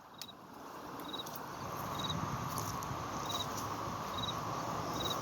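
An insect, likely a cricket, chirping in short high trills about once a second over a steady background hiss that swells early on.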